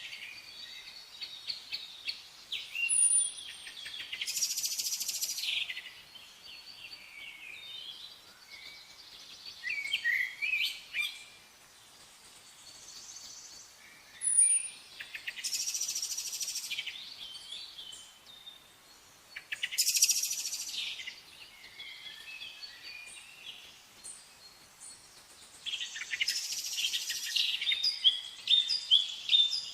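Several songbirds singing and calling over one another, with louder bursts of rapid chirps and trills every few seconds and quieter twittering in between. A short, high, sliding whistle recurs a few times.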